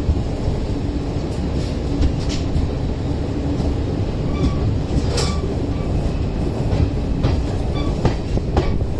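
Passenger coaches of an Indian Railways express rolling past on the track, a steady rumble of wheels on rail. Irregular sharp clicks and knocks of wheels over rail joints, the loudest about five seconds in.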